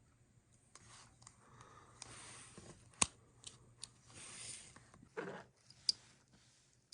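Small parts of a gas lighter being handled and worked at close range: scraping and rustling, with a sharp click about three seconds in and another near six seconds.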